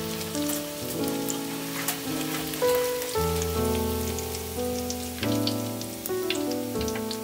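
Beaten rice (chiura) frying in hot oil in a mesh strainer, a dense irregular crackle of small pops and sizzle as the flakes puff up. Background music with plain notes changing about twice a second plays under it.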